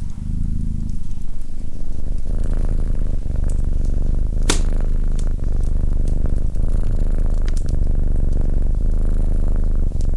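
Domestic cat purring steadily and close up, with a fast even pulse. A fireplace fire crackles in the background, with one sharp pop about four and a half seconds in.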